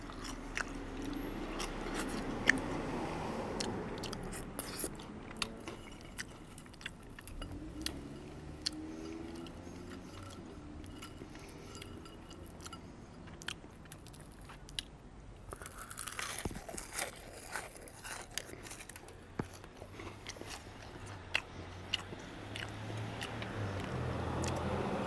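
Close-up chewing and crunching of thin, extra-crispy matchstick fries, with sharp crunches scattered throughout and a denser burst of crunching about two-thirds of the way through.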